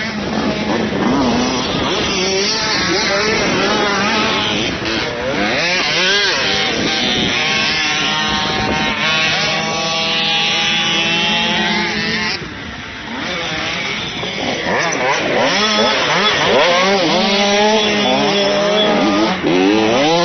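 Motocross bike engines revving up and down as riders accelerate and shift on the track, pitch rising and falling, with several bikes overlapping at times.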